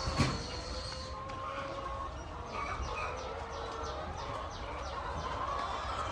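A flock of hens clucking and calling, many short calls overlapping, with a single knock just after the start.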